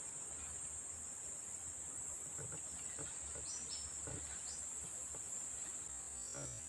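Steady high-pitched drone of insects such as crickets or cicadas, with a few short high chirps a few seconds in and near the end.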